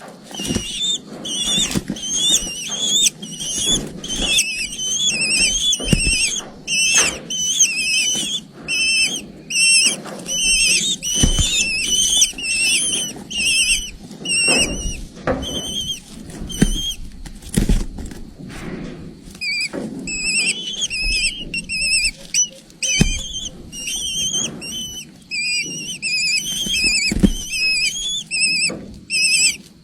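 Eagle chicks giving rapid, high-pitched chirping begging calls, several a second, with a short pause about two-thirds through. Scattered soft knocks can be heard among the calls.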